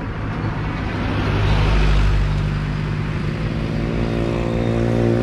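A motor vehicle's engine running steadily, with a vehicle passing close by; the noise swells to its loudest about two seconds in.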